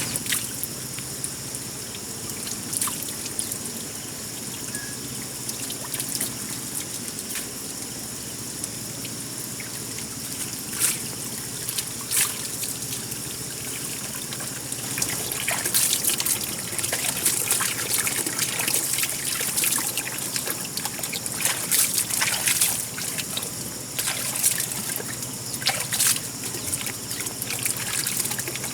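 Water trickling steadily, with scattered short sharp clicks and knocks that come more often in the second half.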